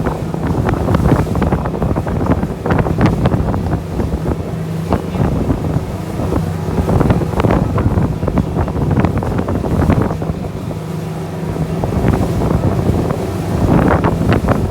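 Glass-bottom tour boat's engine running steadily at speed, with wind buffeting the microphone in irregular gusts over the rush of water.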